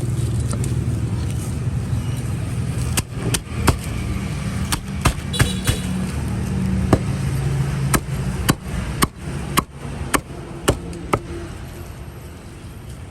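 A motor vehicle engine running steadily as a low hum that fades away about eight seconds in, with a string of sharp, irregular knocks over it.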